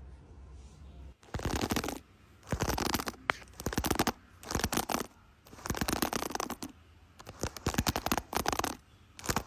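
A hand stroking a cat's fur close to the microphone, in about six rustling strokes, each under a second long, coming roughly once a second.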